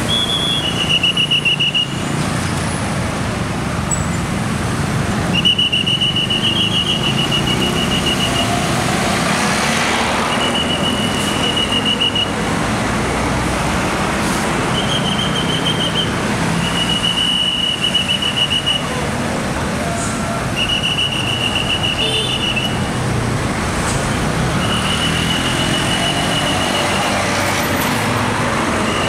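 Scania K410 double-decker bus engine running as the bus pulls out, under about eight trilling blasts on a traffic whistle, each one to two and a half seconds long, repeated every few seconds.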